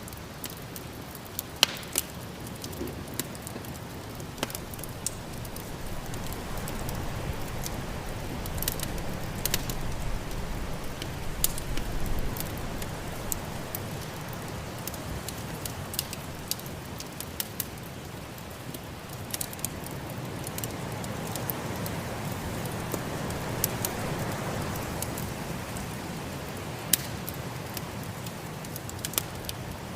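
Wood fire crackling with scattered sharp pops, over the steady rush of snowstorm wind that swells twice, about a third of the way in and again past the middle.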